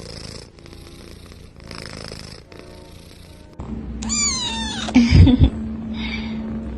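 An animal's drawn-out call, falling in pitch, about four seconds in, followed by two heavy thumps.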